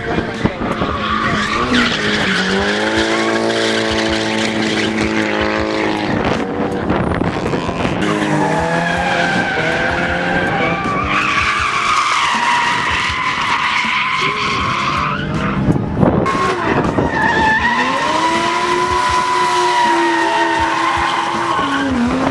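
A drifting car's engine revving hard, its pitch rising and falling over and over as the throttle is worked, with tyres squealing in long stretches as the car slides sideways.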